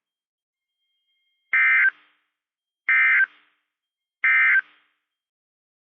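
NOAA Weather Radio SAME digital data bursts: three short, identical buzzy blips of two-tone coded data, about a second and a half apart. They mark the end of the warning message (the SAME end-of-message code, sent three times).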